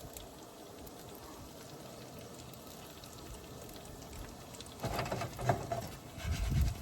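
Home-fry potatoes frying in a skillet with a steady, quiet sizzle. From about five seconds in, a few louder knocks and handling noises come over it.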